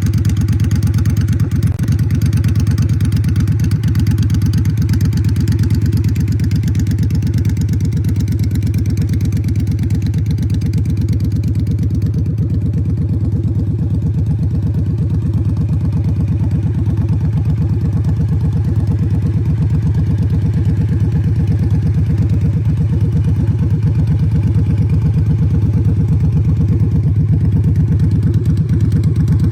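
Custom Triumph bobber's parallel-twin engine running steadily through drag exhaust pipes, a deep, even pulsing exhaust note with no revving.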